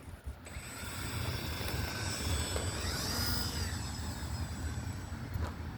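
Electric motor and propeller whine of an E-flite UMX Turbo Timber Evolution RC plane taking off, rising in pitch and loudness about two seconds in and falling away again after about three and a half seconds.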